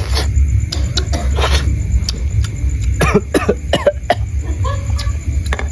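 Steady low rumble of a lit stove burner under a simmering pot, with scattered clicks. About three seconds in comes a brief cough-like voice sound.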